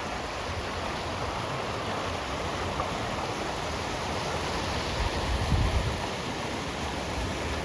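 Swollen creek running high with snowmelt, the water rushing in a steady roar. About five seconds in, a brief low rumble of wind on the microphone rises over it.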